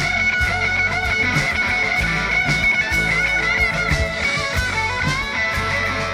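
Live band playing an instrumental break: a guitar plays held, bending lead notes over strummed chords and a steady drum beat.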